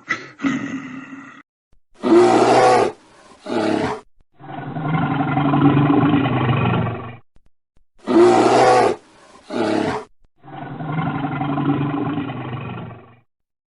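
Recorded wild-animal roars: a short two-part roar, then a longer, deeper growling roar, the pair played twice.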